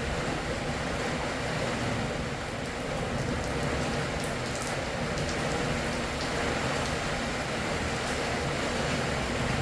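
Steady morning rain falling, a constant hiss with scattered drops ticking on surfaces.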